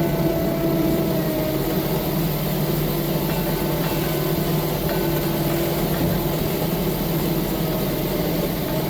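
Heavy diesel engine of a track loader running steadily at a constant speed.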